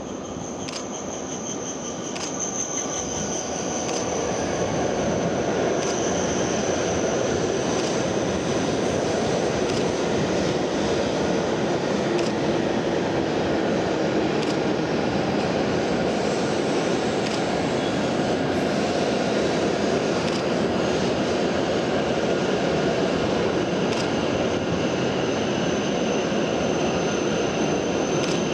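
A W7-series Shinkansen train running at the platforms, a steady rush of motor and rolling noise that builds over the first few seconds and then holds, with a faint high whine near the start and end.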